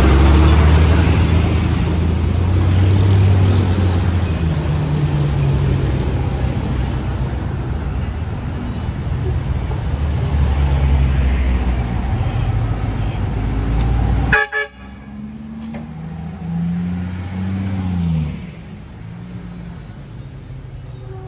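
Busy city-avenue traffic: engines of passing vehicles rumbling heavily, with car horns honking. About two-thirds of the way in, the loud rumble drops off suddenly. A single engine is then heard briefly rising and falling in pitch before the street goes quieter.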